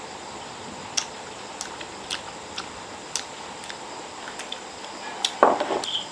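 Scattered light clicks and taps of kitchen utensils against pots and dishes, with a short louder clatter about five seconds in.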